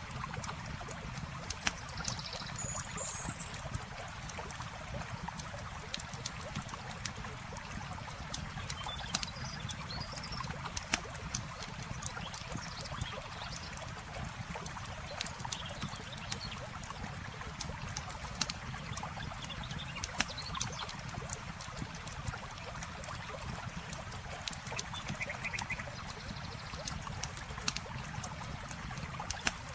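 Campfire crackling with frequent sharp pops over a steady wash of running water, with a few short high chirps from small animals now and then.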